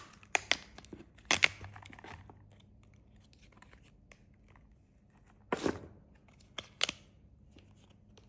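Plastic snack wrappers being torn open and crinkled in a few short, sharp bursts of crackling: a cluster in the first second and a half, then a louder tear about five and a half seconds in and two more snaps soon after.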